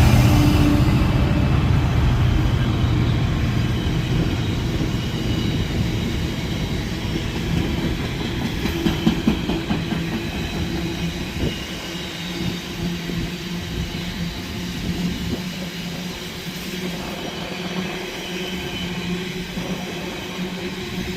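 A train running on the tracks: a low rumble, loudest at the start and slowly fading, with a few knocks about nine seconds in and a steady hum over the last few seconds.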